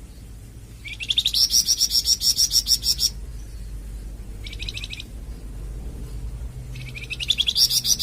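A bird giving rapid trills of even pulses, about eight a second, high-pitched and rising slightly at the start. There are two trills of about two seconds each and a short burst between them.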